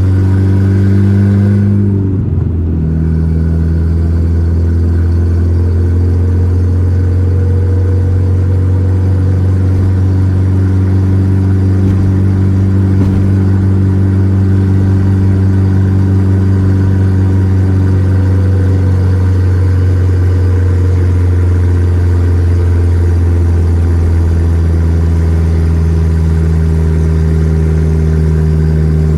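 Volkswagen Gol G4 Rallye's four-cylinder engine running steadily while driving, with a brief drop in pitch and loudness about two seconds in.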